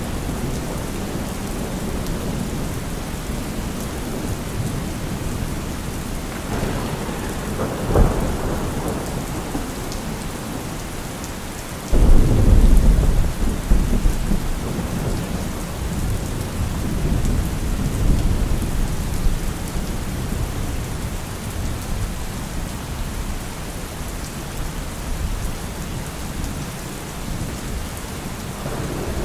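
Heavy rain falling steadily with thunder: a sharp crack about eight seconds in, then a sudden loud clap about twelve seconds in that rumbles low and slowly fades over several seconds.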